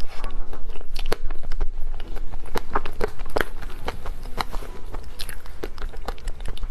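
Close-miked eating of mousse cake: dense, irregular wet mouth clicks and smacks of chewing and biting.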